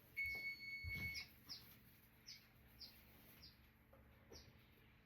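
An electronic appliance beep held for about a second, with a soft thump, then a string of short, falling bird chirps about twice a second.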